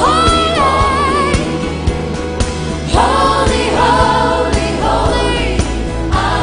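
Gospel music playing: sung notes held with vibrato over a steady bass line and a regular drum beat.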